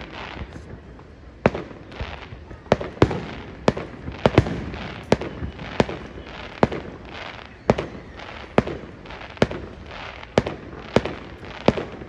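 Fireworks display: aerial shells going off in an irregular, continuous series of sharp bangs, roughly one to two a second.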